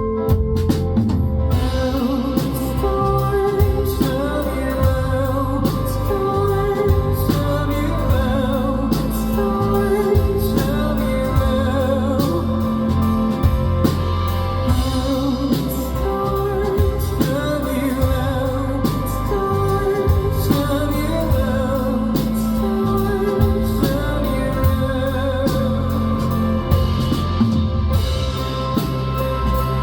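Live band performance of a pop song: a singing voice over instruments with a steady beat.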